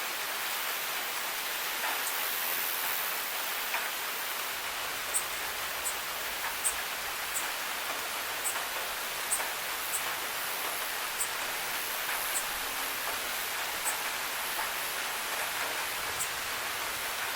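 Steady rain falling, an even hiss, with single drops ticking sharply close by about once or twice a second from about five seconds in.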